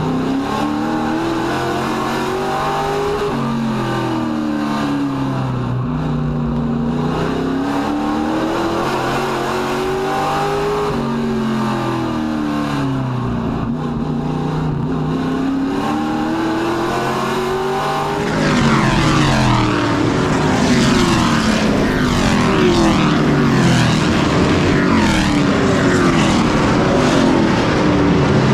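Race truck engines running at speed on a short oval track, the engine note rising and falling in pitch every several seconds. About two-thirds of the way through it gets louder, with several engine notes overlapping.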